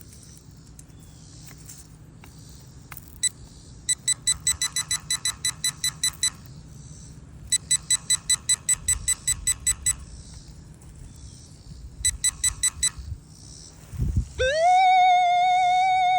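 Minelab Manticore metal detector sounding off over a hot rock: three runs of rapid high beeps, about six a second, then a long steady tone that slides up into place near the end. The rock reads as some kind of metal and the detector does not discriminate it out.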